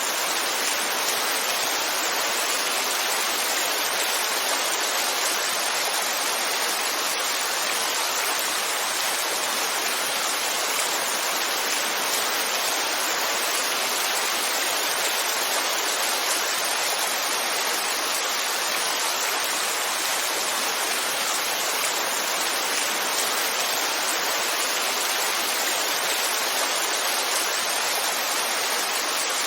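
Heavy rainfall: a steady, dense hiss of rain with no single drops or pauses standing out.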